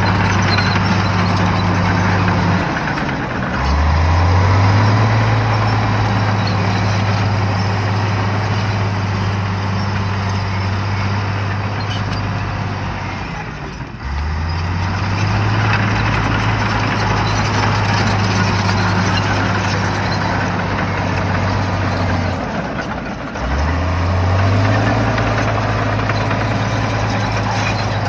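Shantui bulldozer's diesel engine running hard under load. Three times its pitch sags and the level briefly drops, then it climbs back up to full revs.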